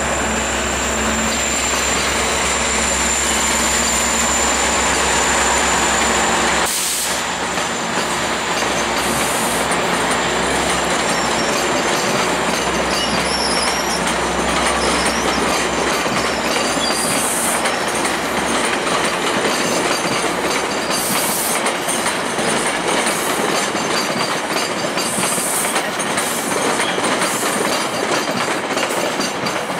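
GO Transit bilevel passenger coaches rolling slowly past on arrival: steady wheel-on-rail rumble with short high-pitched wheel squeals every few seconds. A low steady hum runs for the first several seconds, then drops away.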